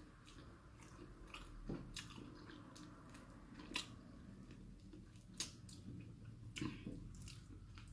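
Close-miked eating: soft chewing with a few sharp wet clicks and smacks from the mouth scattered through it.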